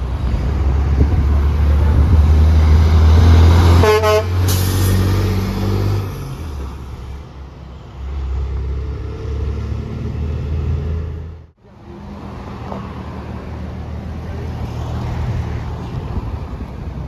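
A heavy truck passes with a loud, deep engine rumble and gives one short horn blast about four seconds in. The sound cuts out suddenly near eleven and a half seconds, then quieter passing traffic follows.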